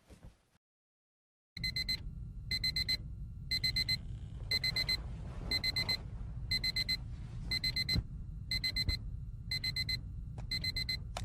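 Digital alarm beeping: about ten half-second groups of rapid high beeps, roughly one group a second, starting about one and a half seconds in after silence, over a low steady rumble.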